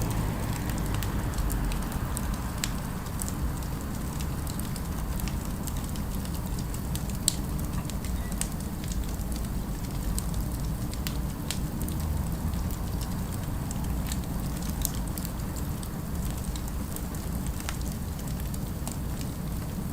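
Fire crackling, with sharp pops scattered irregularly over a steady low rumble; one pop about seven seconds in stands out louder.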